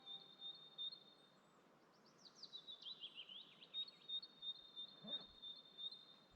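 Songbirds singing in quiet woodland: a thin, high repeated note with short chirps, and about two seconds in a phrase of notes falling steadily in pitch.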